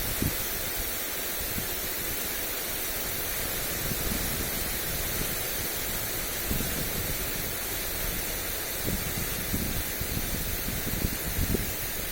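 Lawn sprinkler spraying water onto grass, a steady hiss, with wind buffeting the microphone in uneven low gusts.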